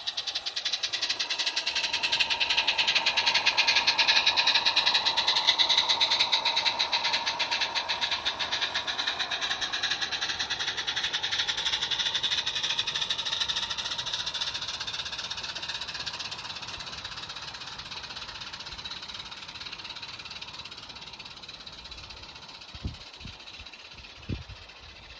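A 16mm-scale garden railway train running past: a fast, even rattle that starts suddenly, is loudest about four to six seconds in, then slowly fades away as it moves off. Two short knocks near the end.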